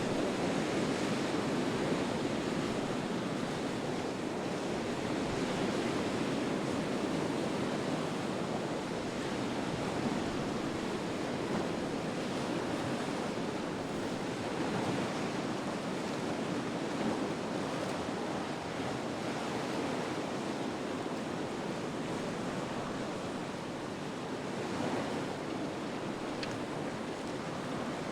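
Rough sea in a strong onshore wind: a continuous rush of waves and surf, rising and falling slowly in loudness, with wind blowing over it.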